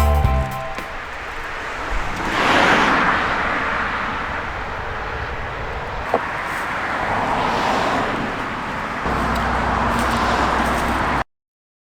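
Outdoor road-vehicle noise: a steady rushing background with two swells, about two and a half and seven and a half seconds in, like vehicles going by. A low steady hum joins near the end, then the sound cuts off abruptly.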